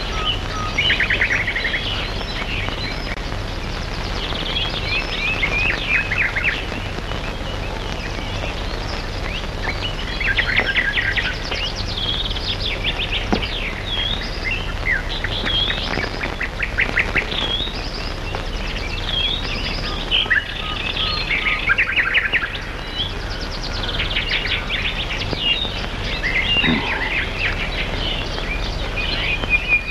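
Small songbirds chirping and trilling, many short overlapping calls and quick trills throughout, over a steady low hum.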